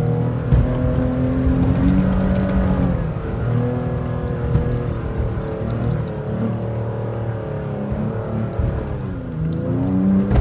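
Off-road vehicle's engine pulling through soft sand, heard from inside the cab. Its pitch rises and falls as the throttle changes, with light rattling in the cabin.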